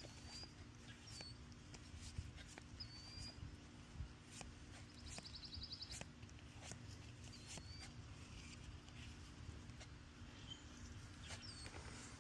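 Faint outdoor ambience with a small bird's short, high chirps that slide up or down every second or few, and a brief rapid trill about five seconds in. Soft scattered clicks sound over a low steady rumble.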